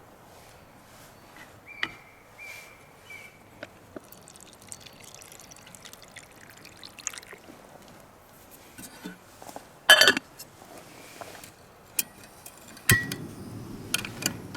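Liquid being poured, among small clicks and knocks of handling, with one louder brief clatter about ten seconds in.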